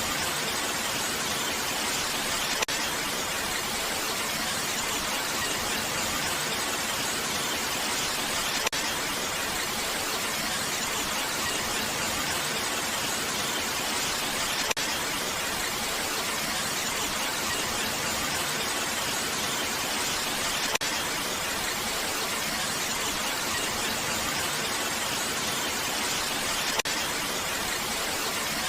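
Steady rain falling, an even hiss with no change, and a small sharp click about every six seconds.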